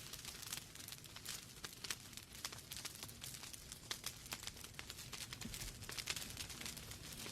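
Wood fire in a fireplace crackling: dense, irregular pops and snaps from the burning logs over a soft steady hiss.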